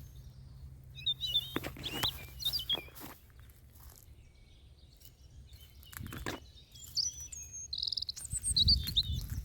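Small birds chirping in short, high phrases, about a second in and again near the end, with a few sharp knocks between and a low rumble near the end.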